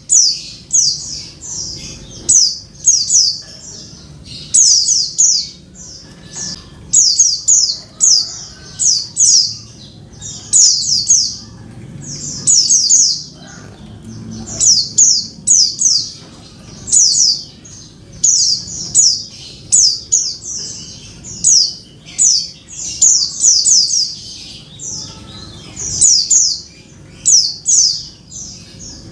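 Female white-eye (pleci) calling to a male: short, high chirps in quick clusters of two to four, repeating about every second or so.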